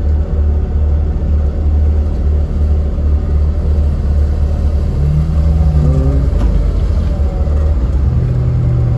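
Suzuki Samurai's four-cylinder engine running steadily at low revs, heard from inside the cabin as a constant low rumble.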